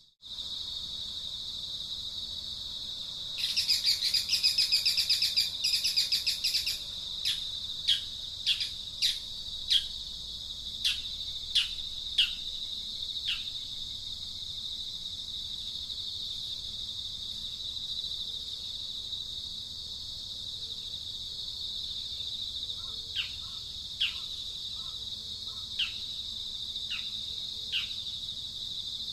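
Outdoor bird and insect ambience: a steady, high insect drone throughout. About four seconds in, a few seconds of rapid pulsing calls sound over it, followed by a run of sharp, falling bird calls, about one a second. A few more falling calls come near the end.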